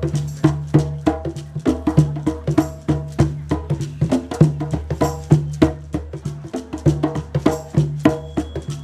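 Live percussion music: a fast, steady rhythm of sharp, pitched wooden-sounding strikes, several a second, over a recurring low tone.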